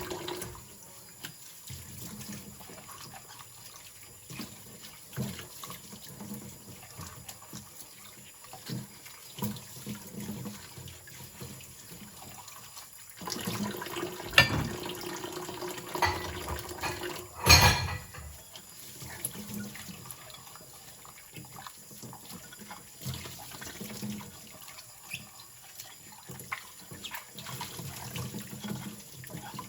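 Rinsing at a kitchen sink: water splashing and trickling with scattered light knocks. A louder stretch of splashing comes about halfway through, ending in one sharp knock.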